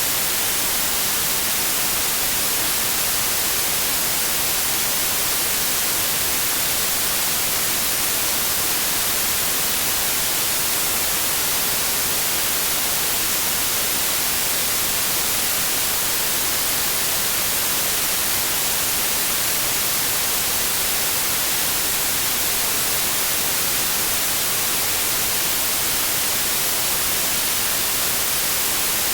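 Synthesized white noise: a steady, even hiss with a flat spectrum, unchanging throughout.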